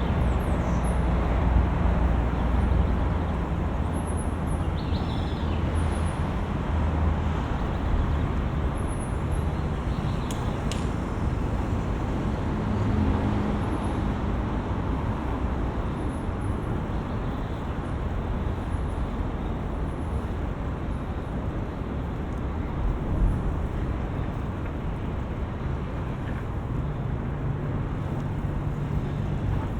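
Steady road traffic noise with a low rumble of passing cars, heard from a moving bicycle.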